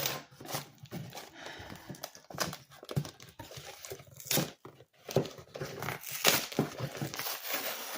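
Tough packing tape being ripped and peeled off a cardboard shipping box, with the packaging crinkling and rustling in quick, irregular bursts.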